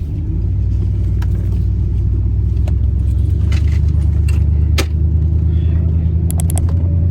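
Car driving on a rough dirt road, heard from inside the cabin: a steady low engine and road drone that grows louder in the first second. Scattered knocks and rattles run through it, with quick high clinks near the end.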